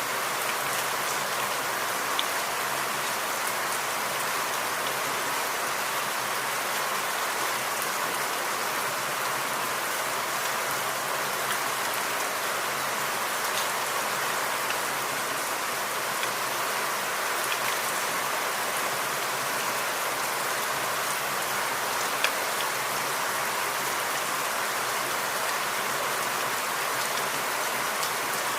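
Steady rain falling in forest, an even hiss with a few louder single drops ticking through it.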